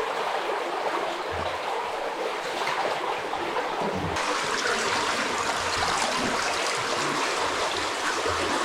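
Cave spring water running and trickling steadily, the stream swollen after heavy rain. The rush turns brighter about four seconds in, with a few soft low bumps under it.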